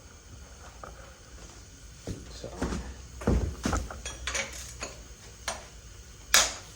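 Metal hand tools clinking and clanking against a Honda K20 engine as a wrench is fitted to the belt tensioner bolt, a string of irregular knocks with one sharp metallic clack near the end.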